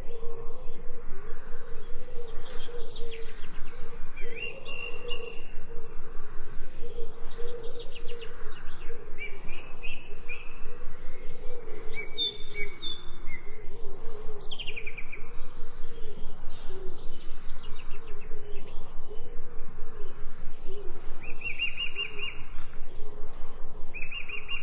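Forest songbirds chirping and singing in short, repeated phrases over a steady background that pulses rapidly, about six times a second.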